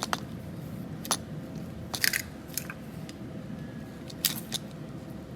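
Handling noise from a removed truck wiring harness: a few short, sharp clicks and crackles, about six over five seconds, as connectors, tape and parts are moved.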